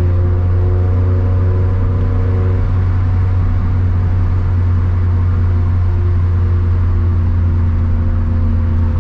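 Turbocharged Scion FR-S's flat-four engine and exhaust droning steadily from inside the cabin while the car holds a near-constant speed.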